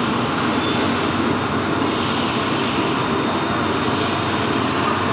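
Steady, loud mechanical running noise of an 80 kW tilting furnace in operation, an even rumble and hiss with no distinct beats or changes.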